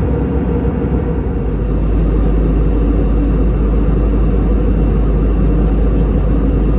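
Steady low rumble of an Airbus A320 cabin in flight: airflow and CFM56 engine noise, swelling slightly about a second and a half in.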